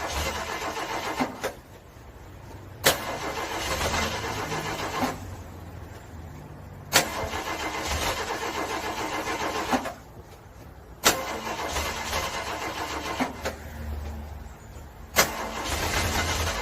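Car engine cranking on its starter in the cold without catching, in repeated attempts. Each attempt begins with a sharp click and turns over with an even rhythm for about two to three seconds before stopping; a new one starts roughly every four seconds.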